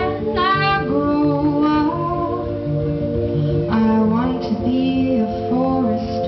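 Live music: female voices singing over acoustic guitar and held instrumental notes, the voices coming in with a gliding phrase near the start and again past the halfway point. The sound is dull and muffled, with no top end.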